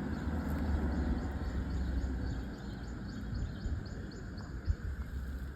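Outdoor ambience: a steady low rumble with faint, short high chirps repeating a few times a second through the middle, and a single sharp knock near the end.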